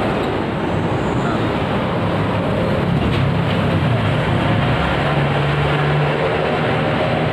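A steady, loud mechanical rumble with a low hum, like a running motor.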